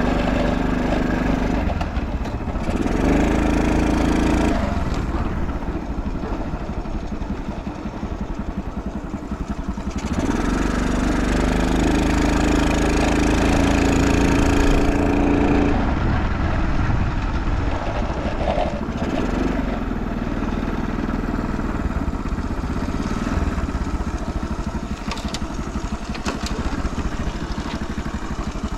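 Early Honda Motra's 49 cc air-cooled four-stroke single-cylinder engine idling. Its revs are raised and held twice, briefly near the start and for several seconds around the middle, then drop back. It is running quietly with no abnormal noise.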